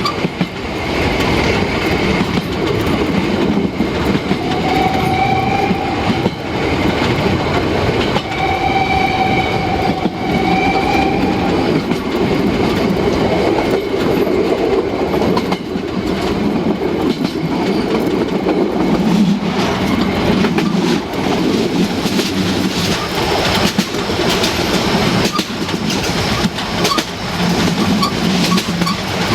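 Narrow-gauge steam train running, its wheels clattering over the rail joints. The locomotive's whistle sounds two long steady blasts, about 4 and 8 seconds in.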